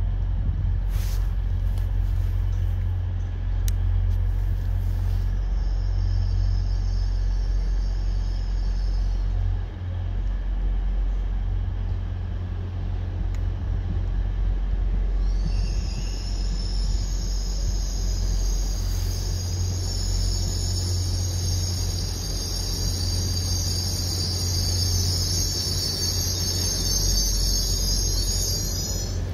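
LNER Class 801 Azuma electric train running slowly into the platform over a steady low rumble, with a high-pitched multi-tone squeal that comes in briefly early on, then returns about halfway through and holds as the train draws alongside.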